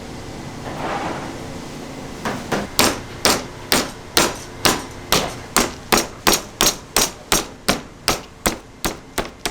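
Raw meat being struck over and over, sharp regular blows about two to three a second starting about two seconds in, to firm it up and tenderize it.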